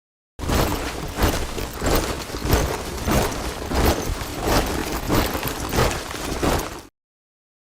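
A body of soldiers marching in step, their boots striking together in a steady beat about every two thirds of a second. It starts abruptly shortly after the beginning and cuts off dead near the end.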